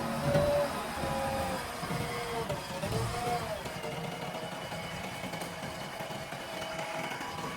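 JCB backhoe loader running, its engine and whining tones wavering in pitch for the first three seconds or so, then holding steady.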